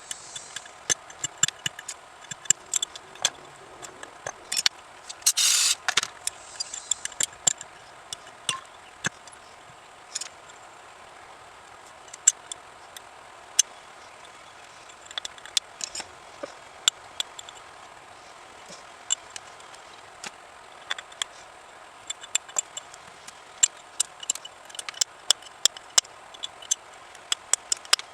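Scattered clicks and clinks of small metal parts and hand tools being handled during bench work, with a short hiss about five seconds in.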